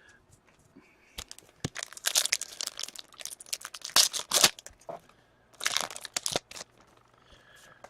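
Foil wrapper of a hockey card pack being torn open and crinkled, in a run of crackly rustles and tears over about five seconds.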